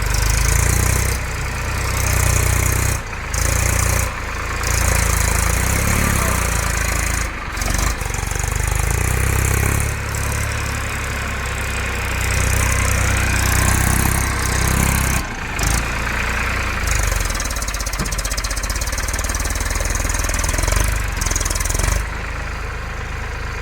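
Tractor diesel engine running steadily under load. The sound cuts out abruptly for a moment several times.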